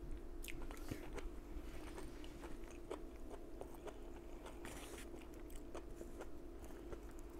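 Close-up chewing of Chinese takeout (fried rice, beef and vegetables), with many small mouth clicks and crunches. A plastic fork picks at food on a disposable plate. A faint steady hum runs underneath.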